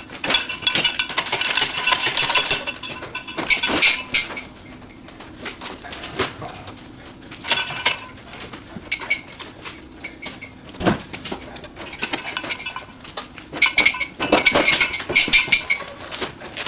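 Metal tools clinking and scraping against metal, with short ringing tones, in several bursts.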